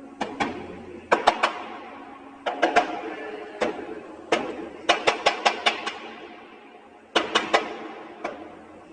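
Woodpecker pecking on wood: short bursts of sharp knocks, about six or seven a second, repeated every second or two, each knock ringing out briefly.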